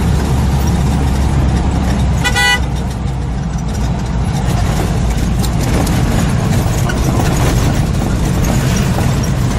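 Steady road and engine rumble of a moving car, with one short car horn honk about two and a half seconds in.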